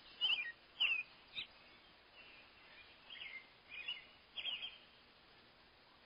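Small birds chirping: a string of short, quick chirps that drop in pitch, coming in small clusters and dying away near the end.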